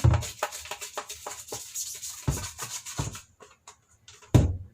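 Stiff brush scrubbing the plastic of a washing-machine pulsator in quick scratchy strokes, with a few dull knocks as the part is handled; the scrubbing stops about three seconds in.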